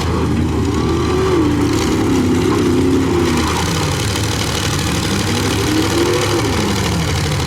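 Pickup truck engines in a demolition derby heat, running loud under a steady din, with one engine revving up and easing back down over a few seconds.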